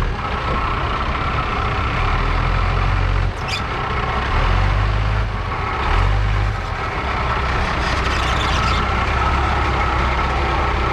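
Ram pickup truck's engine running as it drives over a drop-off on a snowy trail, a heavy low rumble that swells and eases. A brief high-pitched squeak comes about three and a half seconds in.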